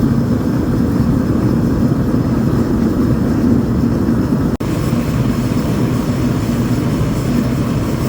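A steady, loud low rumble, with a brief drop to silence about four and a half seconds in.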